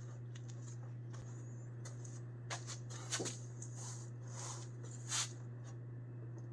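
A few light clicks and scrapes of hands working loose the truck's gas pedal, over a steady low hum.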